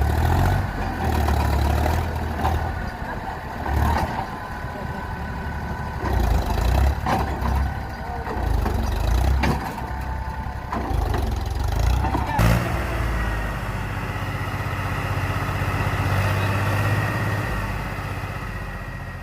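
Tractor diesel engines running, rising and falling in level, with scattered knocks and a sharp knock about twelve seconds in.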